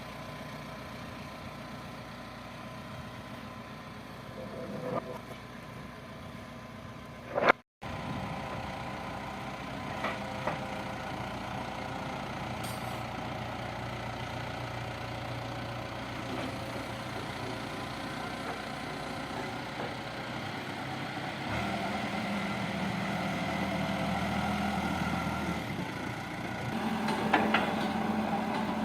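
Backhoe loader's diesel engine running steadily. It breaks off sharply for an instant about eight seconds in, then runs a little louder in the last third, with a few short knocks over it.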